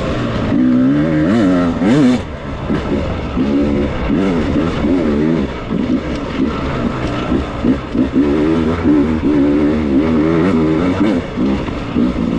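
Beta 300 two-stroke dirt bike engine being ridden with constant throttle changes, its revs rising and falling every second or so.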